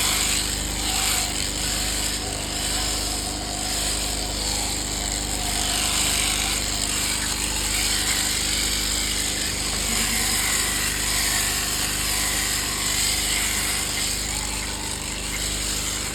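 Electric shearing machine running continuously with a steady mechanical buzz.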